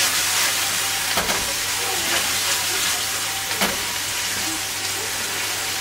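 Vegetables and canned mackerel sizzling steadily in a frying pan as they are stirred with a spatula, with a couple of knocks against the pan.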